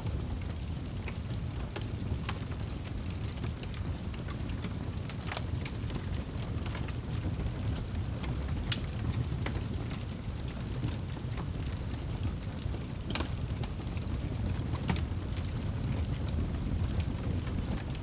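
Crackling fire with scattered, irregular sharp pops over a steady low rush of rain.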